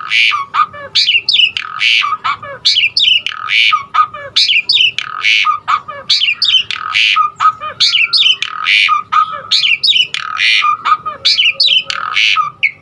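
Pied starling (jalak suren) singing a long, varied song: loud harsh, squawking notes every second or two, with quick whistled glides and chattering notes between them.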